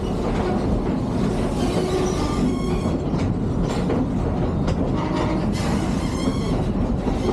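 Railroad passenger car rolling along the track, with a steady rumble and clatter of the wheels. Short high-pitched wheel squeals come in twice, a few seconds in and again near the end.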